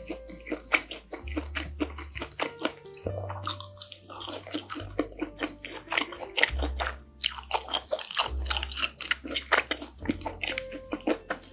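Close-miked chewing of a mouthful of bacon pizza: a dense run of wet, crunchy clicks and smacks. Background music with a changing bass line runs underneath.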